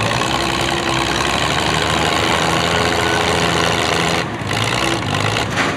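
Antique farm tractor engine running loudly, with a brief dip in level about four seconds in.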